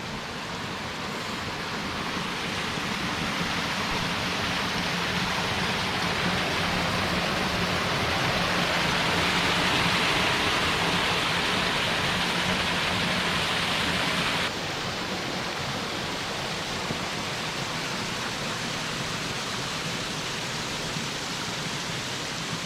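A small creek waterfall, water rushing steadily as it cascades through a rock crack. It grows louder over the first several seconds, then drops abruptly in level about fourteen seconds in.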